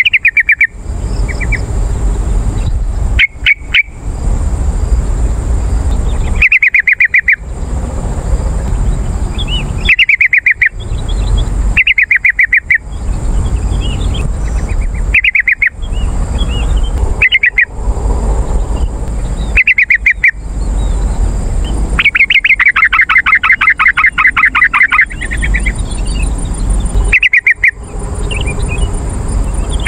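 Yellow-vented bulbul (trucukan) calling: short bursts of rapid bubbling notes every couple of seconds, with one longer run of chatter lasting about three seconds past the middle.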